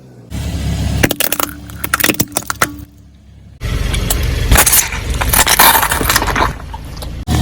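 A car's tyres rolling over and crushing crunchy objects: dense cracking and crackling over the low rumble of the car. It cuts off abruptly and starts again twice, with a brief gap about three seconds in.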